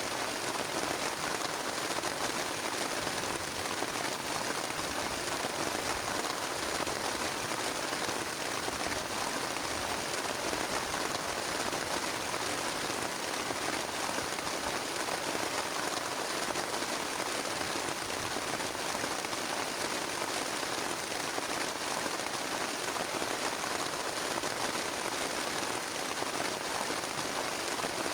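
Heavy rain falling steadily on a plastic tarp.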